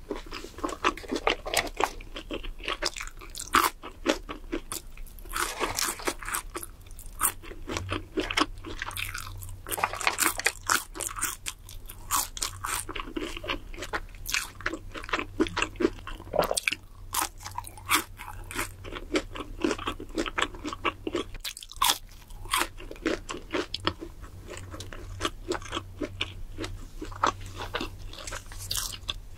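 Close-miked biting and chewing of a fast-food burger and a breaded, fried cheese stick: many crisp crunches in an uneven run.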